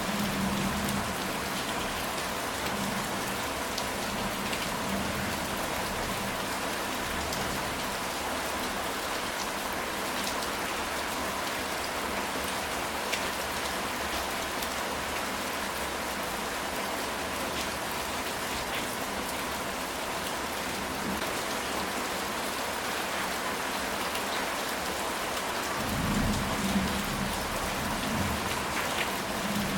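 Steady heavy rain drumming on a ceramic tile roof. A low rumble of thunder comes in about the first second and again in the last few seconds.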